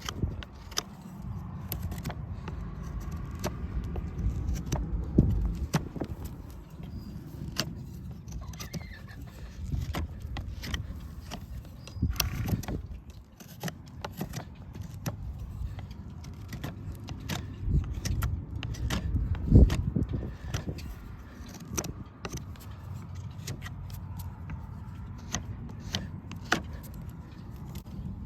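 Irregular sharp metallic clicks and scrapes of farrier's tools working on a horse's hoof, over a steady low rumble.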